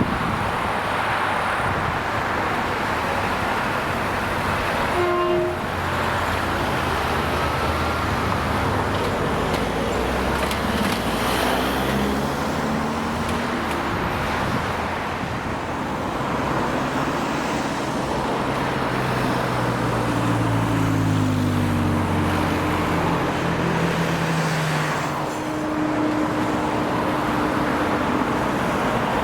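Road traffic at a level crossing: cars passing and pulling away, their engine notes rising and falling over steady tyre noise. A short toot sounds about five seconds in.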